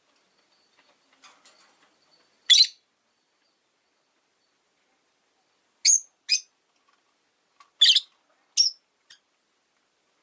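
Rosy-faced lovebirds giving short, sharp, high chirps: five loud single calls spaced a second or more apart, with faint soft chatter before the first.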